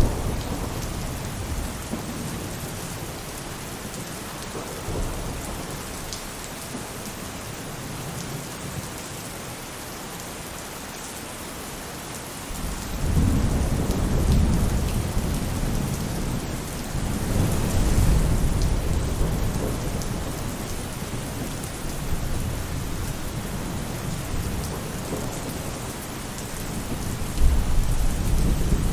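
Rain falling steadily on a roof, a dense even patter, with deep rolls of thunder rumbling in about twelve seconds in, again a few seconds later, and near the end.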